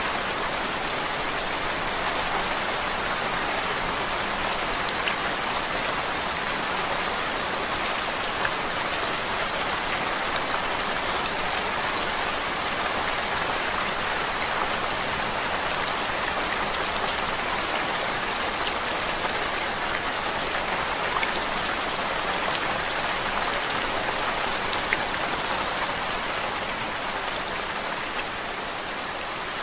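Steady rain falling, an even hiss dotted with scattered sharp drop ticks, used as a constant white-noise background.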